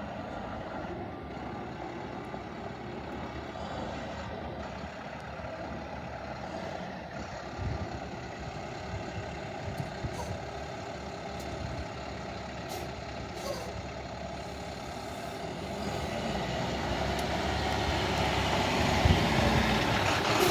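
2009 International 24 ft box truck's engine running steadily, growing louder over the last few seconds.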